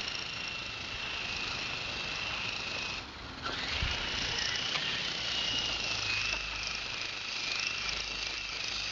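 Small electric RC helicopter's motor and rotors whining at a steady high pitch. About three seconds in, the whine cuts out briefly and then spins back up.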